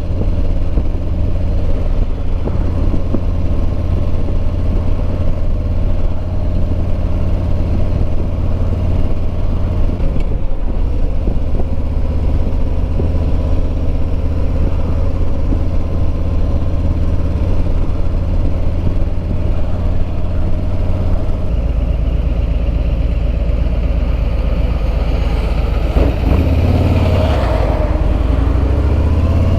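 Harley-Davidson Road Glide Limited's Milwaukee-Eight 114 V-twin running at cruising speed, with wind rushing past the helmet microphone. The engine note dips briefly about ten seconds in, drops lower about two-thirds through, and rises in pitch near the end as the bike accelerates.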